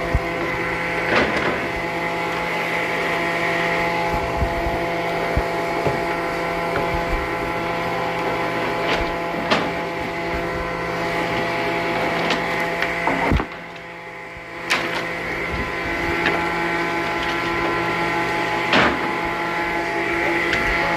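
Sawmill circular saw and its motor running steadily, a hum with a whine of several fixed tones, and scattered knocks. The sound drops away briefly about two-thirds of the way through, then comes back.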